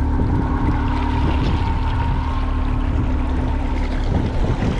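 Boat motor running steadily at trolling speed, a constant low rumble with a steady whine, over the rush of water along the hull.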